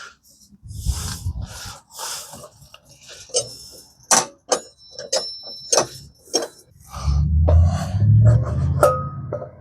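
Metal clinks and knocks of a mini bike's rear wheel, axle and tools being worked into place, with a few short ringing metal clanks, and low dull thumps and rumbling near the start and again toward the end as the wheel is handled.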